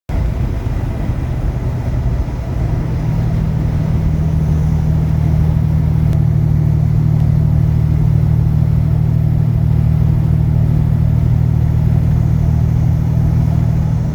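Truck engine and road noise heard inside the cab while driving: a steady low drone that starts suddenly and grows a little fuller about two and a half seconds in.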